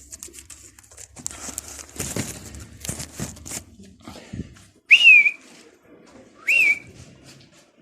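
Rustling and clattering, then two loud, short whistles about a second and a half apart, each rising sharply and then dipping slightly.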